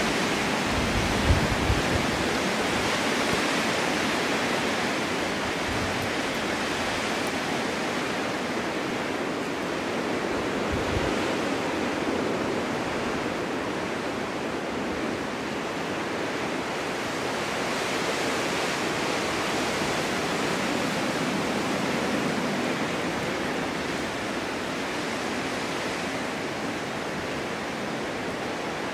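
Snowstorm wind blowing steadily, a dense even rush that swells and eases slowly. A few short low thumps come about a second in and again about eleven seconds in.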